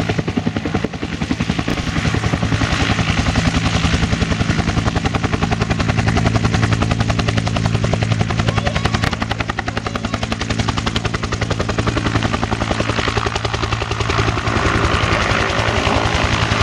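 Bell UH-1 Huey helicopter flying a display, loud and steady, with the rapid rhythmic beat of its rotor blades over a low engine drone.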